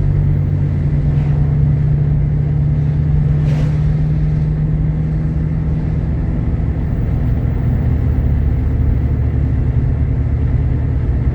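A Jeep Grand Cherokee's 3.7-litre V6 and road noise while driving, a steady low drone.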